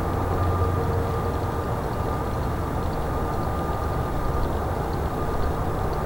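Airbus A320neo's CFM LEAP-1A jet engines running steadily: a low rumble with two steady whining tones over it.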